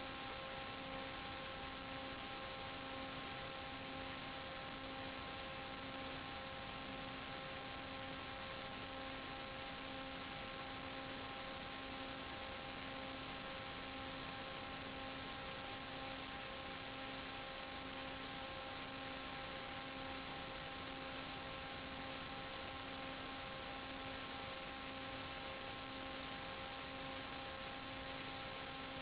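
Steady hiss with an electrical hum of several steady tones, the lowest of them pulsing about one and a half times a second: noise on the audio channel of an analog 5.8 GHz FPV video link, with no motor or wind heard.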